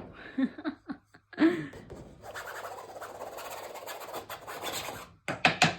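Steady rustling and rubbing for about three seconds, then a few sharp knocks near the end.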